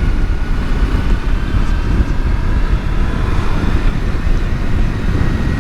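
Kawasaki Versys-X 300's parallel-twin engine running on the open road, buried under heavy wind rush on the microphone, with a faint engine whine that rises slowly.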